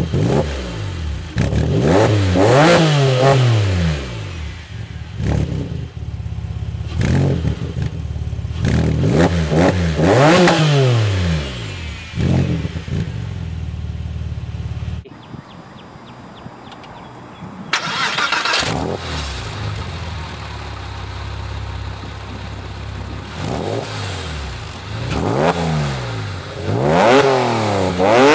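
Porsche 997 Carrera flat-six revved repeatedly through its aftermarket exhaust, each blip rising sharply and falling back to idle, about four or five times. There is a short, quieter break around the middle.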